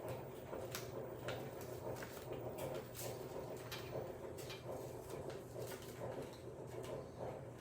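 Faint handling noises from a folded paper airplane as a hook is fitted inside it: irregular small clicks and paper rustles over a steady low hum.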